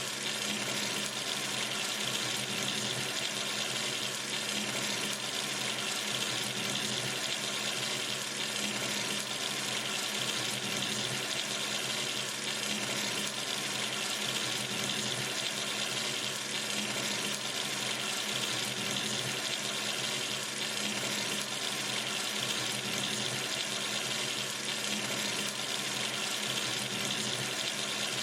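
Water from a sink tap running steadily into the basin, an even, unbroken rushing splash.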